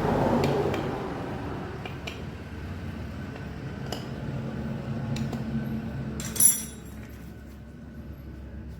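Metal tools and engine parts clinking and tapping, with one sharp ringing metallic clink about six and a half seconds in, over a low steady hum.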